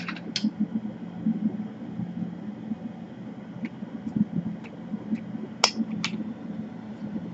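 Small clicks and taps of parts and tools being handled on a workbench, two sharper clicks about five and a half and six seconds in, over a steady low hum.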